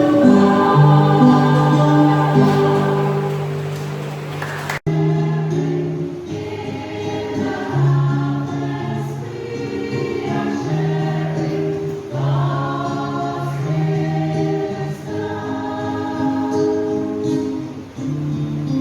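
A church choir singing a hymn over sustained low accompaniment. About five seconds in, the sound cuts abruptly to another recording of the choir singing, duller in tone.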